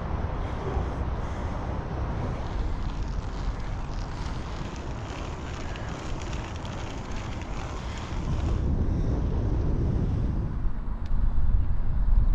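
Wind buffeting the microphone, a steady rumbling rush that grows louder about two-thirds of the way through and again near the end.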